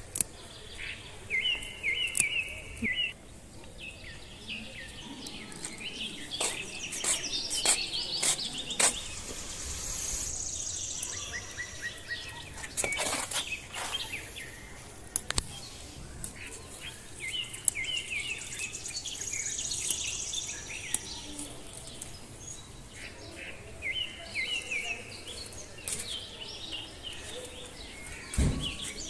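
Birds chirping and singing, one repeating the same short stuttering phrase several times, over a steady background hiss, with a few sharp clicks.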